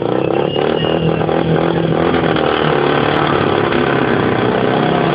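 A motorcycle engine running steadily at moderate revs, with no clear rise or fall in pitch.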